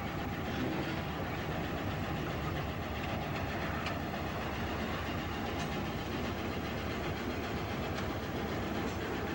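Freight train running on the rails, a steady rumble with a few faint clicks.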